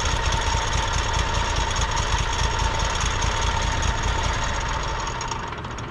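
Sawmill engine running hard with the saw going, a steady whine riding over the engine noise. Near the end the whine fades and the engine drops to a quieter, lower run.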